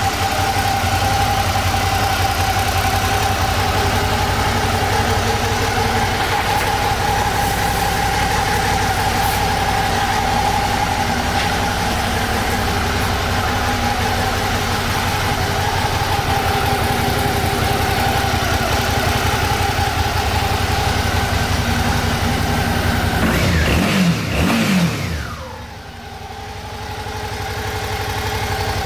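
Suzuki DL650 V-Strom's V-twin engine idling steadily, blipped once about 24 seconds in with a quick rise and fall in pitch.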